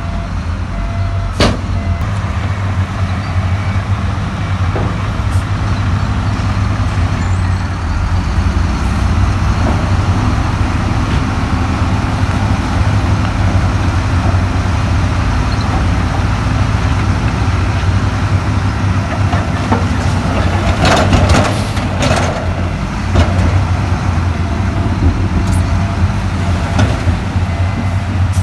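Heavy diesel earthmoving machinery running steadily under load, with a low engine drone. There is a sharp metallic knock about a second and a half in, and a burst of clanking and clattering about three quarters of the way through.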